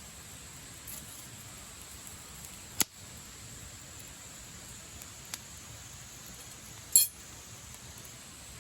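Wood campfire burning, with a sharp pop about three seconds in, a faint tick a little later, and a louder crackling pop about seven seconds in.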